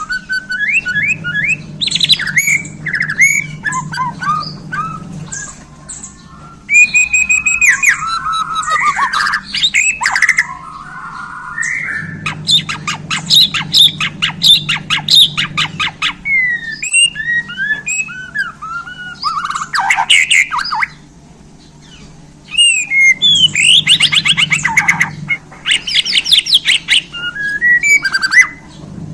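White-rumped shama of the Borneo form (murai batu Borneo) singing a loud, varied song of whistled glides, fast trills and harsh notes. It pauses briefly twice, about a quarter of the way in and again about three quarters of the way in.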